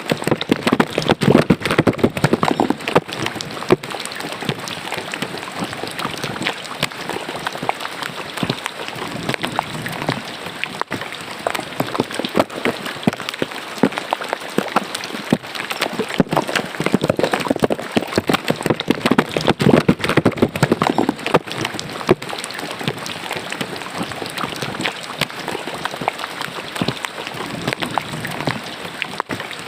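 Steady rain pattering down with rainwater splashing and running in a drain, a dense patter of countless drops that swells louder twice, about a second and again about sixteen seconds in.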